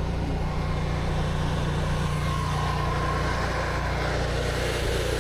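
Pressure washer's engine running at a steady speed, a constant low hum.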